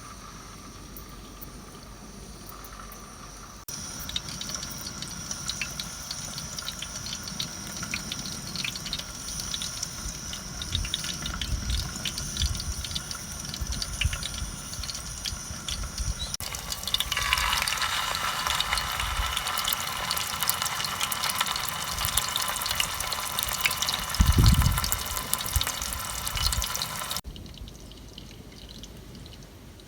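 Running water splashing, in a few cut-together shots: a lighter flow with small splashes and knocks, then a heavier steady rush of water in the second half that stops abruptly, with a low thump shortly before it ends.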